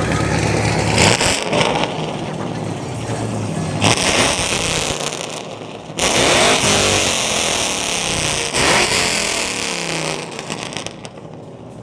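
A car engine revving hard in repeated surges, with a few seconds between them, fading near the end.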